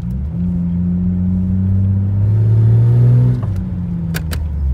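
Jeep Cherokee XJ with a new loud aftermarket exhaust accelerating hard. The exhaust note builds to its loudest about three seconds in, then drops off suddenly, as when the driver lifts off or shifts.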